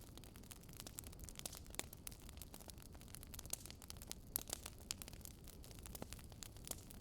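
Campfire crackling faintly: irregular sharp pops and snaps from burning wood, several a second, over a low steady rumble of the fire.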